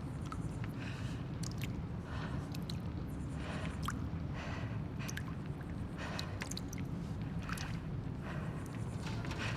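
Abandoned-building ambience soundscape: a steady low rumble with small clicks and short crackling bursts scattered about once a second.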